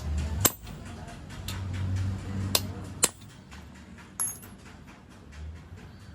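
Metal parts and tools knocking against each other: a handful of sharp, irregular clinks, one near the middle ringing briefly, over a low steady hum.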